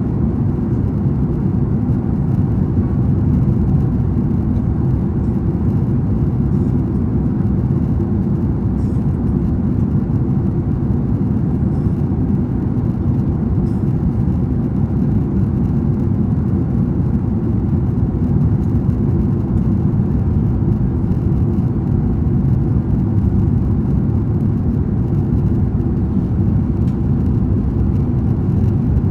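Steady cabin noise inside a Boeing 767-300ER in flight: a constant low rumble of jet engines and airflow.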